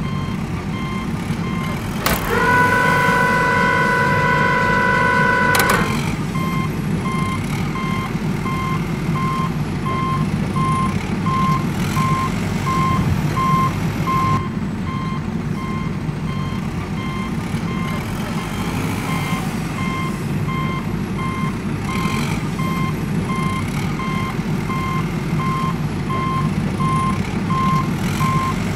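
Truck reversing alarm beeping steadily over a low engine rumble, with a horn sounded once and held for about three and a half seconds a couple of seconds in.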